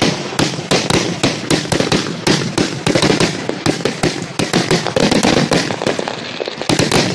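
Fireworks going off in a rapid barrage: a dense run of sharp bangs and crackles, several a second, easing slightly near the end.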